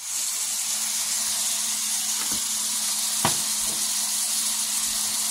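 Pork chops and sliced onions sizzling as they sauté in a hot pan, a steady frying hiss with two short clicks about two and three seconds in. A steady low hum runs underneath.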